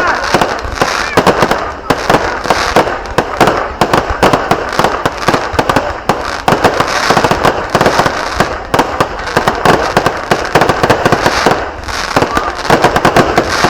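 Fireworks going off in a dense, continuous barrage: many sharp bangs and crackles a second, without a break.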